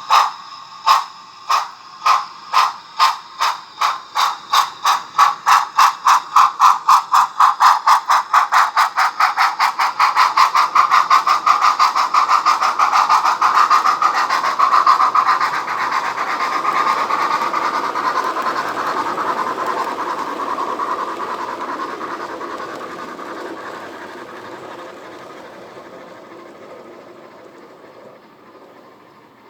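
Steam locomotive chuffing as it pulls away, the exhaust beats quickening from about two a second to a fast continuous rush, then fading away as it recedes.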